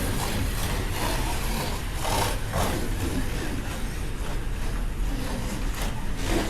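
Slot cars running laps on a slot car track: a steady whir of small electric motors and guide braids over the track, with a low constant hum.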